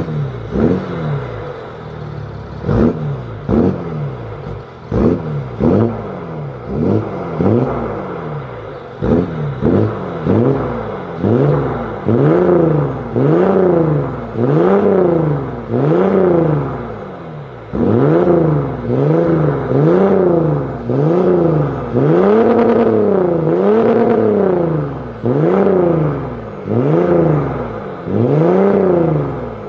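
Mercedes-Benz V6 engine revved repeatedly while standing: quick blips of the throttle, each rising and falling back, about one a second, with longer, fuller revs in the second half.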